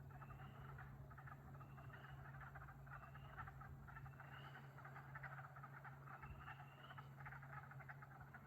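Faint frog chorus: a dense, fast pulsing trill of many calling frogs, with a short rising peep repeated about once a second, over a steady low hum.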